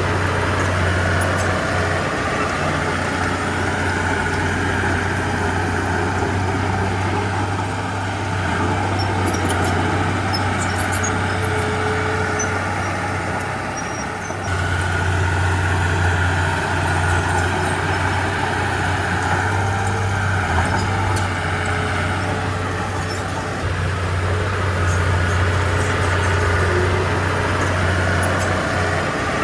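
Heavy diesel engine of earthmoving machinery running continuously and working under changing load, easing off briefly about halfway through, then picking up again.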